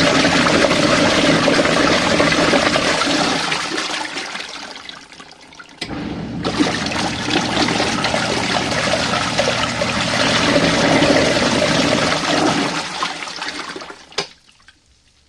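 Small RV washing machine churning a tub of hot water, sloshing as it agitates. The churning dies down about five seconds in, picks up again after a click, and stops with another click near the end as the 15-minute wash cycle finishes.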